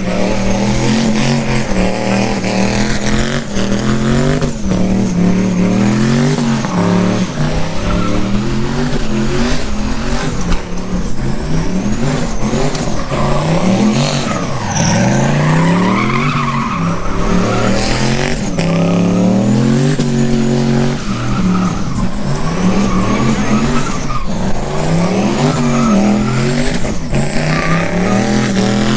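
Vehicle engines revving over and over, their pitch rising and falling about once a second or so.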